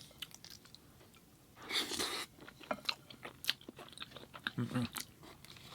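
A person chewing food close to the microphone, with many small wet mouth clicks and a short rush of noise about two seconds in.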